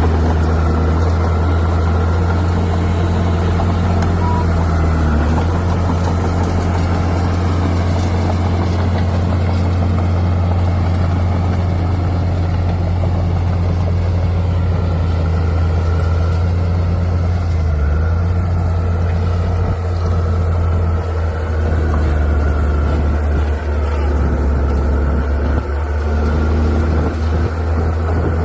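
Bulldozer's diesel engine running steadily with a low, even drone, dipping briefly a couple of times.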